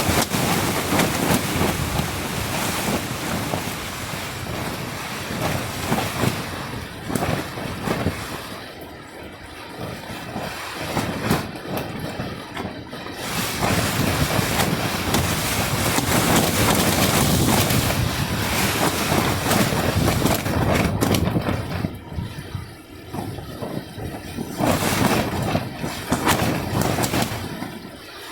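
Gusty wind with rain, a loud rushing noise that rises and falls in waves, with wind buffeting the microphone.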